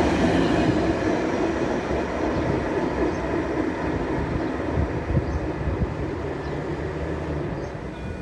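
Wheels of an InterCity train's passenger coaches rolling on the rails as the last coach passes and the train draws away. The rumble fades steadily.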